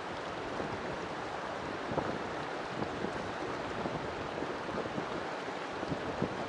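River water flowing and splashing steadily, a dense even rush with small irregular gurgles and splashes.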